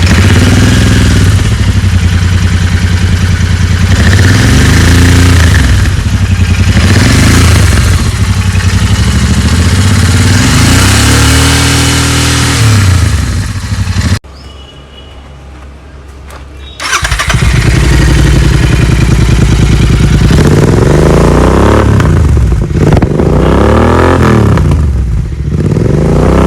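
Royal Enfield 650 parallel-twin engine being revved repeatedly, in two recordings joined by a cut about 14 seconds in: one through the standard exhaust and one through a Red Rooster aftermarket exhaust. Each rev rises and falls back. The engine is quieter for a few seconds just after the cut before the revving starts again.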